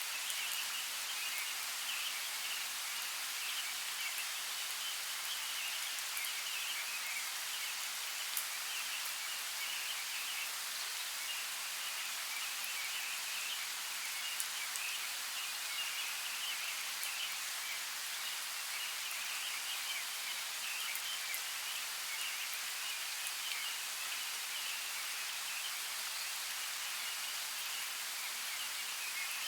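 Light rain falling steadily in a forest, an even hiss with an occasional single drop tick.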